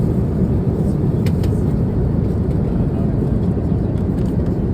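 Airbus A350-900 cabin noise in flight: a steady low roar of engines and airflow, with a couple of faint clicks.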